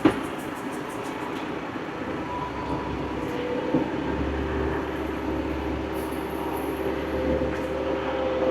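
Old farm tractor's engine running steadily under way, with a sharp knock right at the start and a deeper rumble coming in for a few seconds in the middle.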